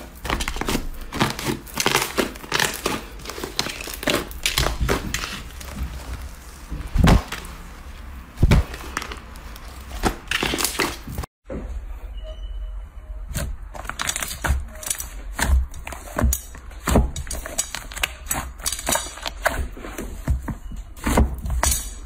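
Slime being squeezed and poked by hand, making irregular clicks, pops and crackles. The sound cuts out for an instant about halfway through and picks up again with a similar run of small pops.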